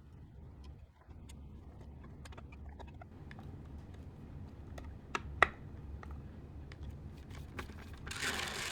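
Scattered light clicks and taps over a low steady hum, with two sharper clicks about five seconds in and a brief rushing hiss near the end.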